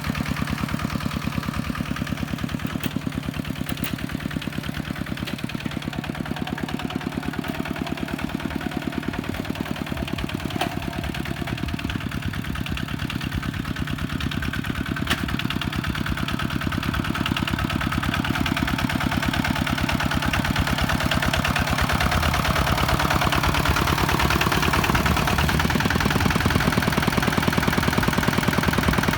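Kubota tractor's diesel engine running steadily with a fast, even firing beat, getting louder after about twenty seconds.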